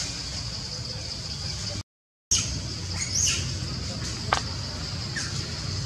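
Outdoor ambience: birds chirping a few times in short calls over a steady high hum and low rumble. The sound cuts out briefly about two seconds in.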